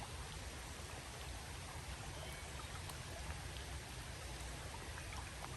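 Steady rain falling on a creek, a constant hiss with faint scattered drop ticks, over the sound of the flowing water.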